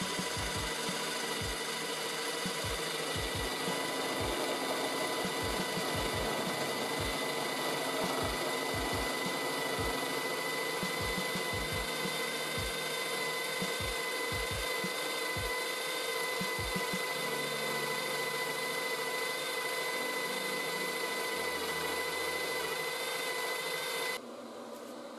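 3D printer running: a steady whine from its motors, with irregular low knocks through the first two-thirds. It stops suddenly near the end, leaving a quieter fan hum.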